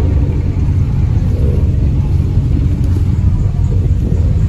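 A car engine idling: a steady, deep, low rumble with no revving.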